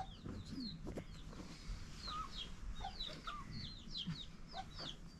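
Birds chirping: a steady run of short, high, falling chirps, several a second, with a few lower calls in between.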